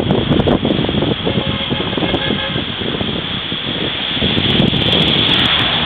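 Steady noise inside a car: the vehicle running, with storm wind on the body and the microphone.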